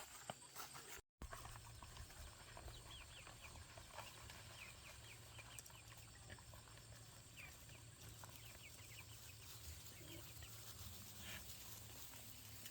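Faint peeping and clucking of chickens, short high chirps scattered over a steady low hum, with a brief cut to silence about a second in.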